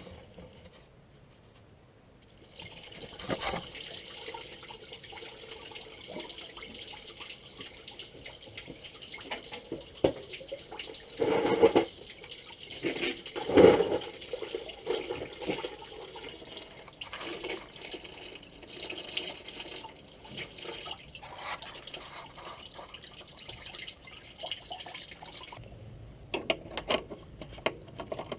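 Antifreeze coolant pouring from the Land Rover 300Tdi engine block drain plug hole and splashing off the axle, starting a couple of seconds in and stopping near the end, with a few knocks partway through.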